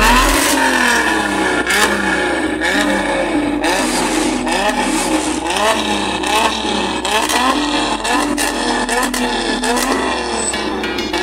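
A tuned car engine being revved in quick, repeated blips, about two a second, each rising and falling in pitch, with sharp pops in between.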